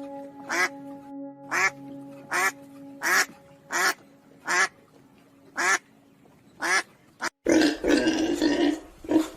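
A duck quacking, about eight short separate quacks roughly a second apart, over soft background music. Near the end the audio cuts abruptly to louder grunting from another animal.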